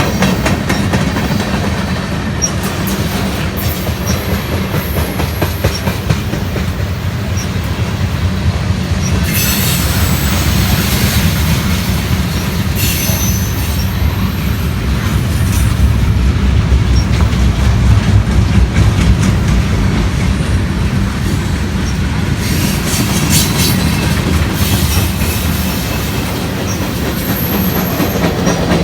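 Train cars rolling past with a steady low rumble and clatter of wheels over rail joints, with wheel flanges squealing in high screeches now and then.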